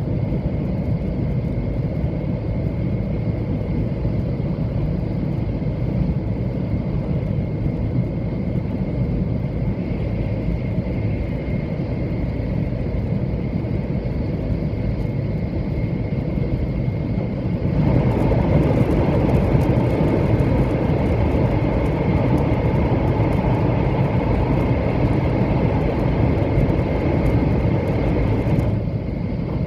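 700 series Shinkansen train running at speed, heard from inside the passenger cabin: a steady rumble with a faint, steady high whine. About two-thirds of the way through the noise gets noticeably louder and harsher, then eases back near the end.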